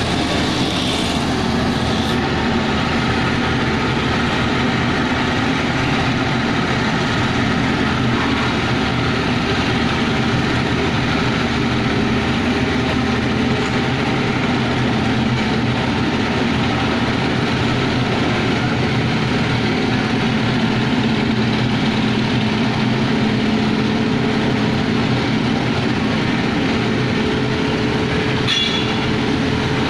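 Heavy diesel engine running steadily, with a constant drone and several held tones. A higher tone joins near the end.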